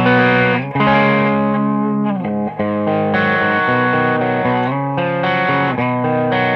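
Electric guitar played through an Audiostorm Quad Screamer overdrive pedal in its germanium clipping mode, a lightly driven, fairly clean tone. Chords ring out and change every second or so.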